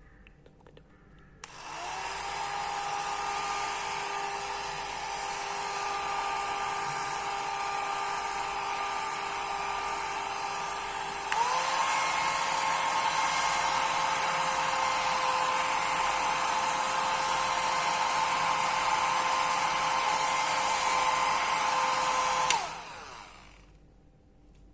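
Small portable hair dryer switched on and blowing steadily with a motor whine, switched up to its higher setting about halfway through so it gets louder and the whine rises in pitch, then switched off near the end and winding down.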